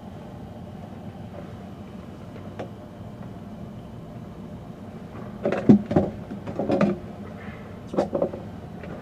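A steady low hum throughout, with a cluster of sharp knocks and clattering about five and a half seconds in and two more knocks around eight seconds.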